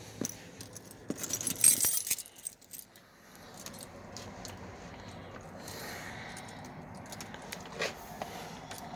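A ring of keys jangling and clinking while the right key is picked out, with a louder metallic clatter a little over a second in.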